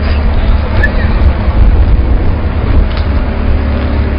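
Wood chipper running steadily, a loud, even low hum with no change in load.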